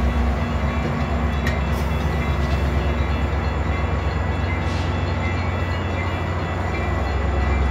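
Diesel train running by with a steady low rumble of engine and wheels on the rails.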